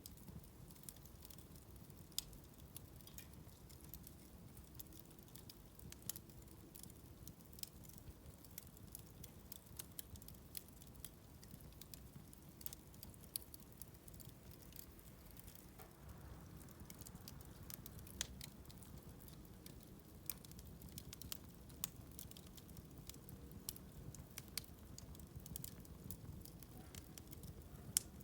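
Bonfire of wood and paper crackling: many small irregular pops and snaps over a faint low rumble, with one louder pop near the end.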